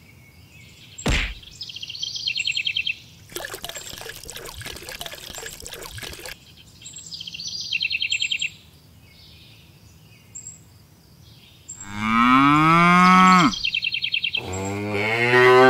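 A cow mooing: two long calls near the end, the first falling in pitch. Earlier come a single knock, a rushing noise like pouring water lasting about three seconds, and short bursts of chirping.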